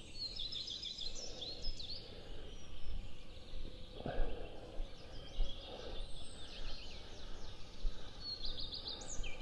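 Small birds singing: a string of short, high, trilled phrases and chirps repeating through, over a faint low background rumble.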